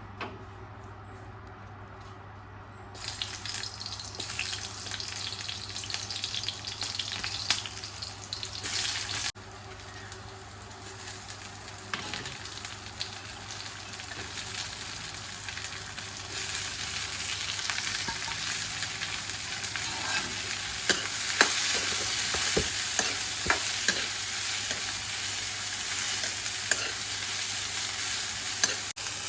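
A steady hissing noise starts about three seconds in and gets louder in the second half, with scattered sharp clicks and scrapes.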